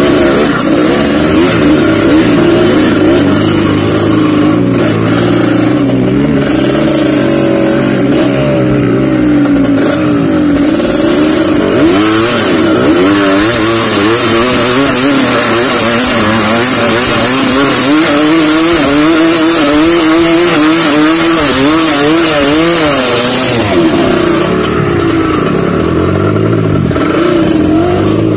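Underbone motorcycle engine running close by, its revs rising and falling over and over as it is ridden over rough ground.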